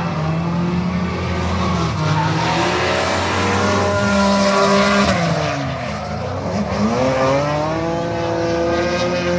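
Drift car on track, its engine revving hard with the pitch rising and falling, the revs dropping steeply about six seconds in and climbing again, over tyre squeal.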